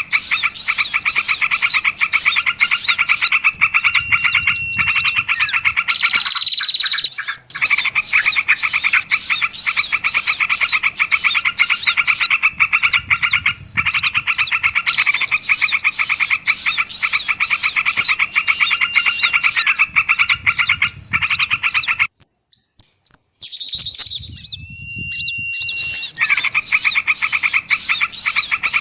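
Bird-luring audio of several small songbirds calling at once: a dense, loud mix of rapid repeated chirps and trills. A held single note runs through the first few seconds and comes back later, and the sound drops out briefly about two thirds of the way in.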